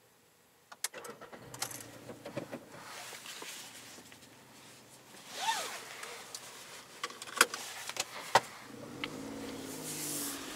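VW Up's 1.0-litre three-cylinder petrol engine started from inside the cabin. After a few clicks, the starter cranks about five and a half seconds in and the engine catches with a brief rev that rises and falls. It then settles into a steady idle, with a couple of sharp clicks from the cabin.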